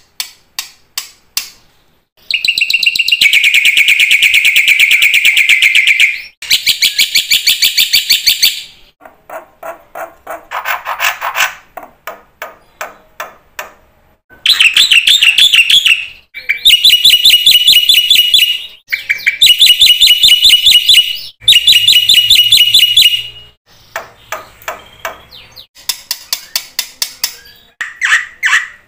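Black-winged myna (jalak putih) in full, varied song: loud phrases a few seconds long of fast, rapidly repeated rattling and chattering notes, with short pauses between them and some phrases pitched lower than the rest.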